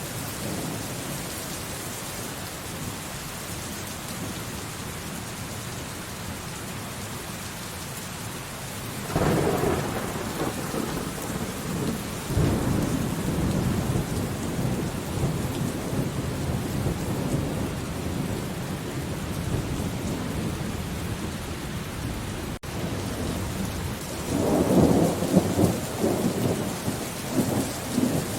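Steady rain with thunder: a peal breaks suddenly about nine seconds in and rumbles on for several seconds, and another crackling peal comes near the end.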